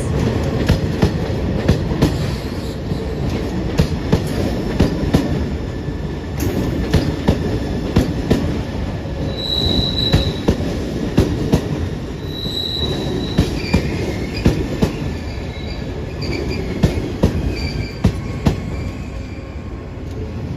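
Yakumo limited express electric train rolling slowly into a station platform. Its wheels click over the rail joints, with two short high-pitched wheel squeals about ten and thirteen seconds in and fainter squealing after.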